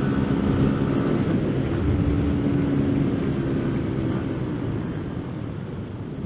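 CFMoto Papio motorcycle's small single-cylinder engine running while riding, its note steady at first, then easing off and getting quieter over the last couple of seconds.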